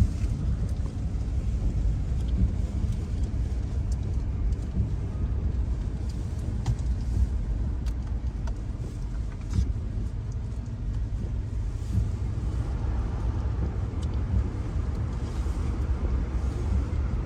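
Steady low rumble of road and engine noise heard from inside a moving vehicle's cabin, with a few faint clicks.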